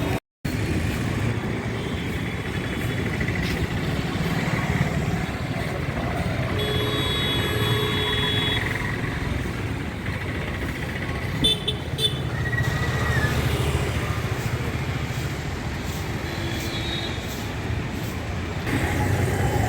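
Road traffic running, with vehicle horns honking now and then, one held for about two seconds near the middle.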